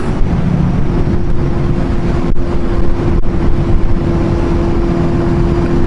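Motorcycle engine running at a steady cruising speed, its pitch holding level, under a constant rush of wind and road noise.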